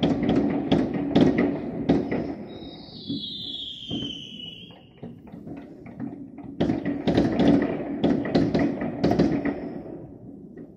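Fireworks and strings of firecrackers going off in rapid crackling volleys. A whistle slides down in pitch a couple of seconds in. The bangs thin out in the middle, come thick again from about seven seconds, and fade near the end.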